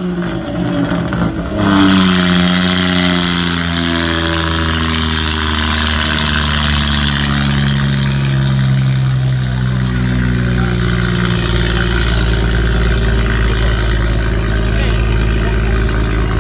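Loud modified car exhaust. After a harsh noisy stretch that cuts off about a second and a half in, the engine note drops in pitch in several steps over about ten seconds, then settles into a steady low drone.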